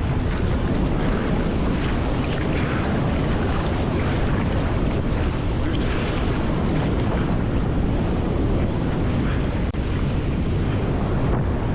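Steady roar of water from a large waterfall.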